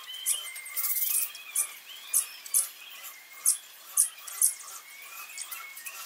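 Small birds chirping: a run of short, sharp, high chirps, roughly two a second, over a fainter wavering call.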